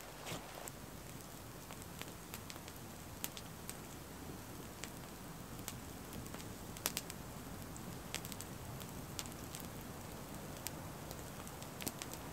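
Dry bark peelings burning in a fire, crackling with scattered sharp pops over a faint steady hiss.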